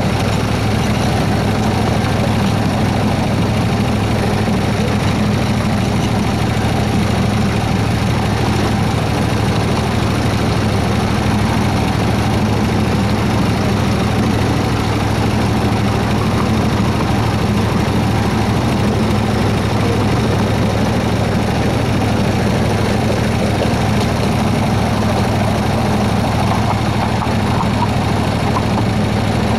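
Engine of a 7¼-inch gauge Baldwin S-12 miniature locomotive running at a steady low hum while the train moves slowly.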